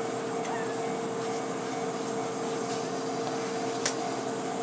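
Steady electrical-mechanical hum from a stationary snowplow train, holding two even tones, with a single sharp click just before four seconds in.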